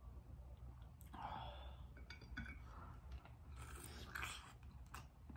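Faint wet mouth sounds of biting into and chewing a sauce-coated hard-boiled egg, close to the microphone, with the bite coming near the end.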